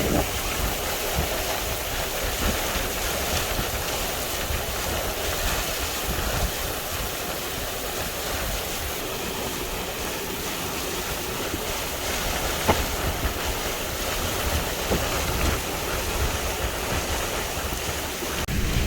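Hurricane winds and heavy rain rushing steadily, with the wind rumbling on the microphone. A single brief sharp click about twelve seconds in.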